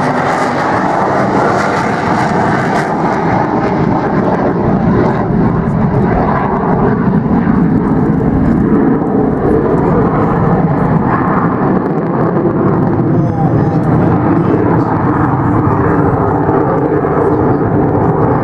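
Avro Vulcan's four Rolls-Royce Olympus turbojets running at speed during a flying display, a loud steady rumble; the high hiss fades after about three seconds while the deep rumble carries on.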